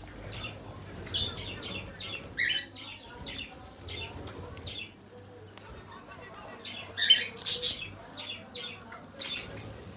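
Pet parrot making a string of short, high, scratchy sounds at irregular intervals, with a louder cluster about seven seconds in.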